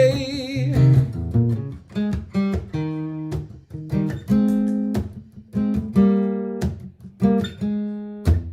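Martin GPCPA4 acoustic guitar playing a sequence of strummed and picked chords, each struck chord ringing out and fading before the next, about one to two a second.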